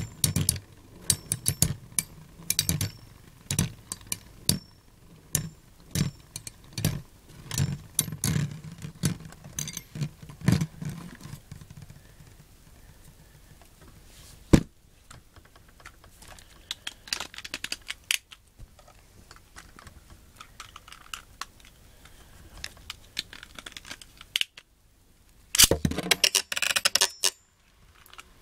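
Two Beyblade spinning tops, Earth Aquila and Lightning L-Drago, clashing and scraping in a stadium. A fast, irregular run of sharp clacks thins out about halfway through, and a dense burst of clashes comes near the end.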